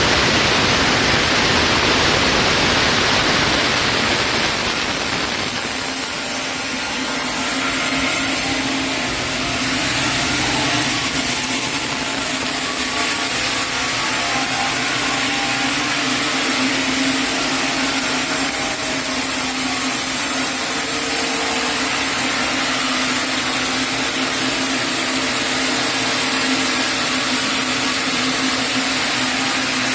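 Sawmill saw cutting through a chinaberry (sendan) log: a steady machine hum with a constant tone over the noise of the cut. A harsher, even rush of noise fills the first few seconds before the hum settles in.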